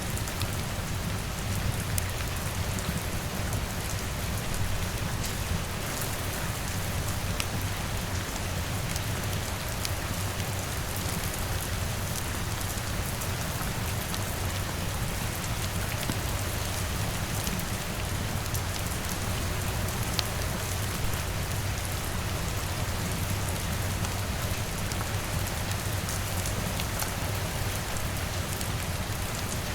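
Steady rain falling on a window, an even patter with scattered sharp ticks and a low, steady rumble underneath.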